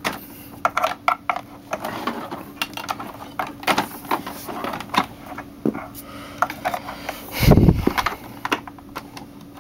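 Power cord being wound onto the cord hooks of a Hoover Futura upright vacuum: irregular light clicks and rattles of cord and plug against the plastic body, with one louder thump about three-quarters of the way through.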